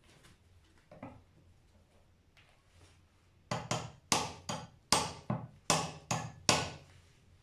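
A hammer striking about ten quick, sharp blows in about three seconds, after two lighter knocks, as the brake booster is worked apart.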